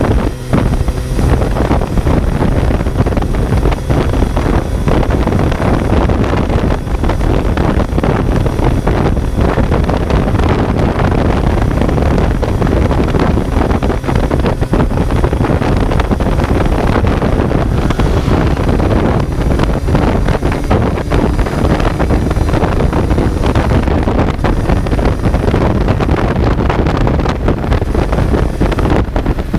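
Kawasaki Z900 motorcycle's inline-four engine running steadily while riding, heard from an onboard microphone with heavy wind noise buffeting it.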